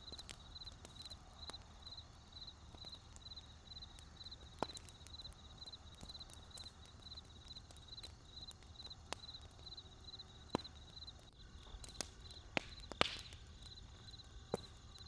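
Wood fire crackling: sparse sharp pops over a low steady rumble, with a few louder pops close together about twelve to thirteen seconds in. A high, thin chirp repeats evenly about three times a second.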